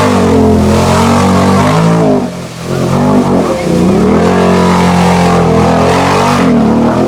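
Off-road vehicle engine revving hard through a mud bog hole. The revs sag about two and a half seconds in, surge back up, and fall away near the end.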